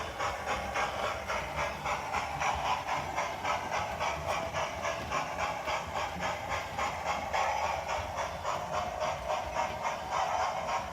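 Sound decoder in a Hornby OO gauge model of the Duke of Gloucester steam locomotive, playing a steady exhaust chuff through the model's small speaker, about three beats a second, with a hiss of steam.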